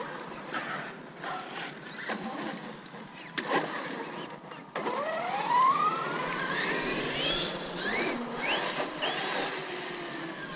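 Electric RC car's brushless motor whining as it accelerates, its pitch rising in one long sweep about halfway in and then in several shorter repeated rises as the throttle is blipped, over tyre and gravel noise.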